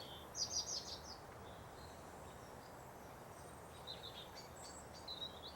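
Quiet bird chirps: a quick run of high chirps about half a second in, and a few more scattered near the end, over a low steady hiss.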